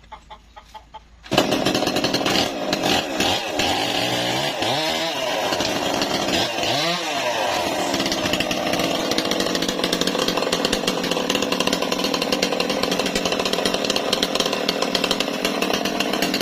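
Engine-driven saw cutting timber, starting suddenly and loudly just over a second in. Its pitch dips and recovers several times in the first seconds, then it runs steadily.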